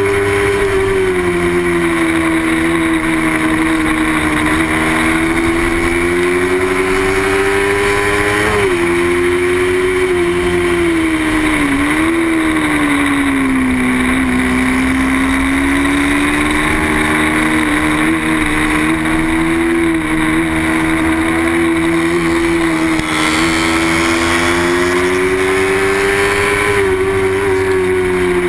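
Small-displacement racing motorcycle engine running hard at high revs, its pitch sagging and climbing with the throttle, with sudden drops about 9 and 12 seconds in.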